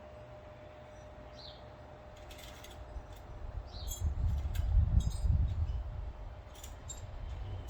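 Light metallic clinks and clicks of tools and parts being handled, with a bird giving a short chirp twice early on and a low rumble that swells around the middle.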